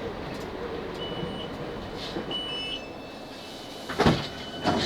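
Cabin noise of a Class 458 electric multiple-unit train slowing into a station: a steady running rumble with brief thin, high-pitched tones. Two loud knocks come near the end.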